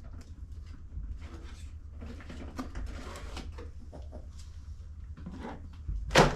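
Rustling and light clicks from handling the RC model and its packaging, over a steady low hum, with one sharp knock about six seconds in.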